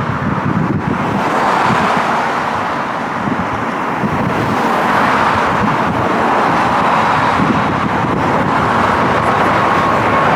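Jet airliner taking off low overhead, its engines making a loud, steady rush of noise; a thin steady engine whine comes in near the end.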